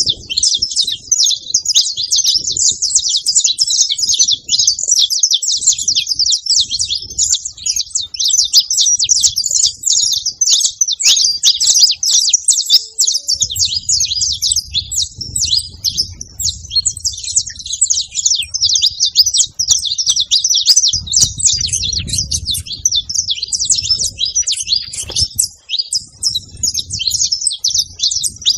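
A group of saffron finches (canários-da-terra) chirping and singing over one another in a dense, continuous chatter.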